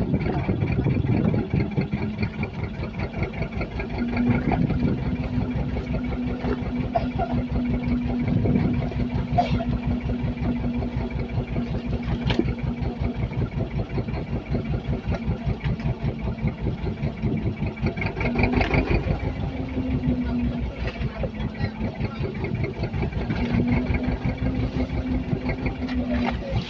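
Boat engine running steadily with an even, rapid firing beat and a steady hum.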